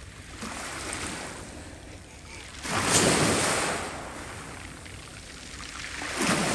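Sea waves breaking and washing on the shore in slow swells, the loudest about three seconds in and another near the end.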